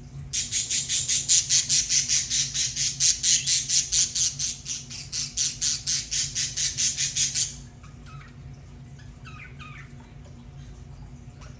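Budgerigar giving a rapid, evenly spaced series of harsh calls, about five a second, stopping after some seven seconds; faint, short chirps follow.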